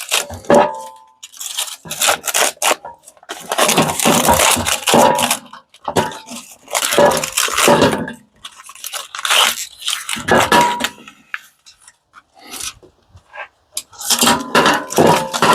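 Metal parts of an industrial coffee machine clattering, scraping and clinking as it is pulled apart by hand, with a few short metallic rings among irregular knocks.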